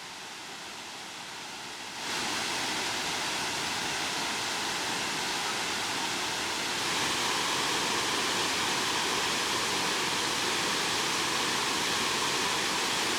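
Steady rushing of a large waterfall, Tinuy-an Falls. It gets louder abruptly about two seconds in and again a little around seven seconds.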